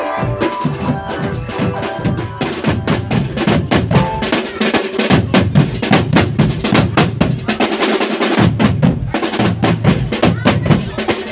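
Marching drum band playing: a pitched melody line in the first two seconds gives way to dense, rapid snare drum strokes over pounding bass drums.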